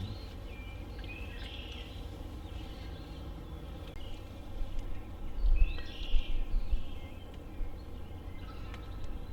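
Wild birds chirping in short calls, about a second in and again around five to six seconds in, over a steady low rumble, with a few loud low thumps between about five and seven seconds.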